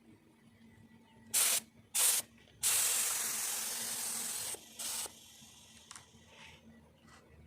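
Compressed-air paint spray gun, fed by an oil-free air compressor, triggered in hissing bursts: two short ones, then a longer spray of about two seconds, then one more short burst.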